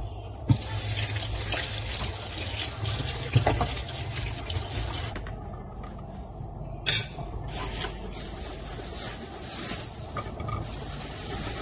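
Water running from a tap into a sink, a steady rushing that breaks off about five seconds in, then a sharp click and more running water.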